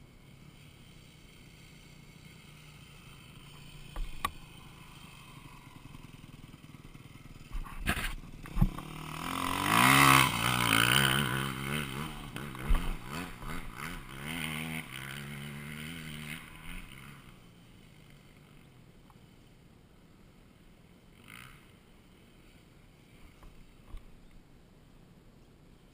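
Dirt bike engine coming closer, loudest about ten seconds in as it is revved with the pitch sweeping up and down, then fading away. A few sharp knocks come before it.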